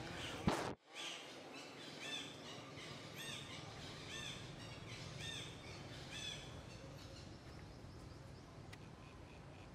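A bird calling over a steady forest background: a short arched note, repeated about once a second, five times. About half a second in there is a sharp, loud burst of noise, followed by a brief drop-out.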